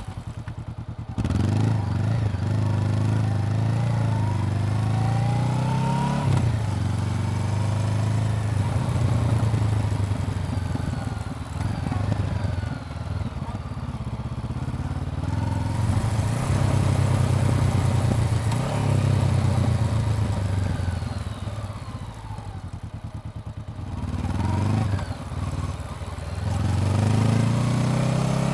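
Honda CBR400R's parallel-twin engine running on the road, its revs rising and falling. The engine drops back off the throttle right at the start and again about three-quarters of the way through, then picks up again.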